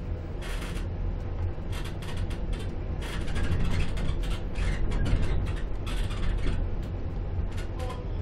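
Inside a Z2ABCMg-FPS intercity passenger coach running into a station: a steady low rumble of the running gear with irregular clacks and clatters as the wheels cross switches and rail joints, a little louder in the middle.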